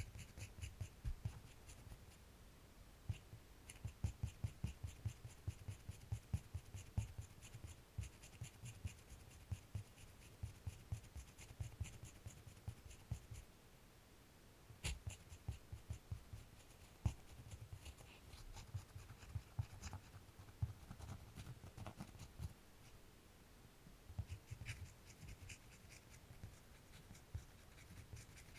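Drawing on paper: many quick, quiet scratching strokes in runs, with a short pause about midway and a few sharper taps after it.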